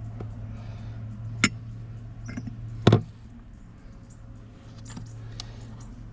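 A few sharp clicks and knocks, the loudest about a second and a half and three seconds in, over a steady low hum.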